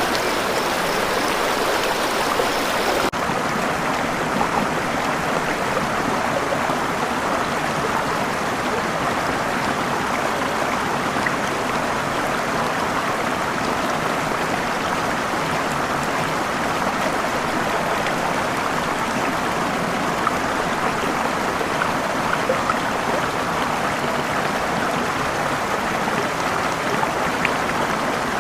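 Steady rushing of falling water from a waterfall. About three seconds in, the highest hiss drops away abruptly and the rush continues, a little less bright.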